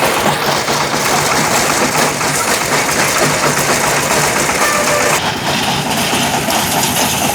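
Engine-powered brick-breaking machine running: a loud, steady engine and crushing noise with a churning beat underneath. The higher part of the noise eases slightly about five seconds in.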